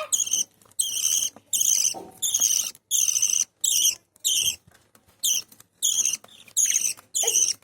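Small Australian parrots giving a run of short, scratchy, high-pitched chirps, about two a second, with a brief pause a little past the middle.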